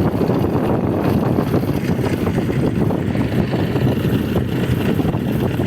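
Skid-steer loader's diesel engine running steadily.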